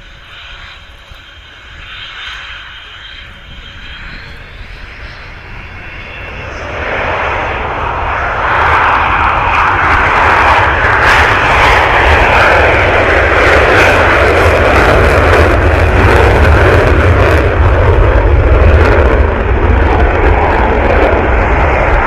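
Aircraft engine noise, faint with a thin whine at first, swelling about seven seconds in to a loud, steady rushing noise with a deep rumble underneath as the aircraft comes close.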